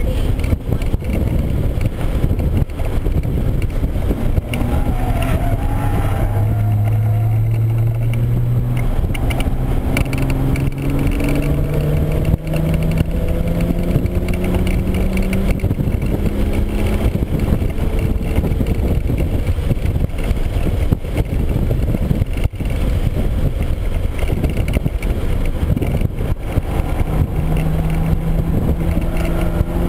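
2013 Hyundai Genesis Coupe 3.8 R-Spec's V6 heard from inside the cabin while lapping a track, under heavy wind and road roar. Its note climbs steadily for about ten seconds as the car pulls through a gear, eases off, then starts climbing again near the end.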